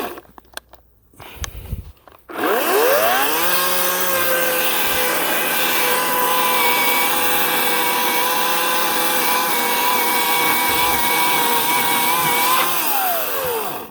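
Ryobi 18-inch electric chainsaw triggered about two seconds in: its motor whine climbs quickly to full speed, runs steadily for about ten seconds, then winds down and stops near the end. A few light knocks come before it starts.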